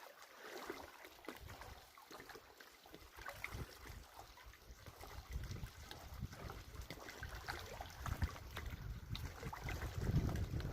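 Lake water lapping and trickling around a kayak, with many small splashes, and a low rumble that builds toward the end.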